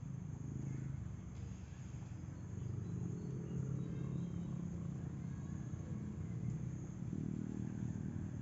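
Low steady rumble of a distant engine, with a constant high insect buzz over it.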